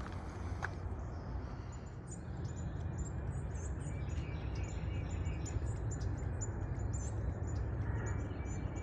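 Small birds chirping: many short, very high chirps in quick succession, starting about two seconds in, over a steady low rumble.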